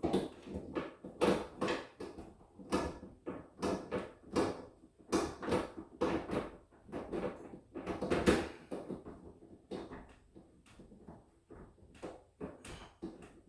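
Irregular knocks and clicks, one or two a second, as a metal drawer slide and its screws are handled and screwed to a wooden cabinet side by hand. The loudest knock comes about eight seconds in.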